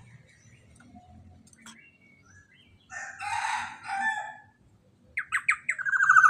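Black-naped oriole calling: a harsh, rasping call about three seconds in, then a quick run of short notes near the end that runs into a longer drawn-out note.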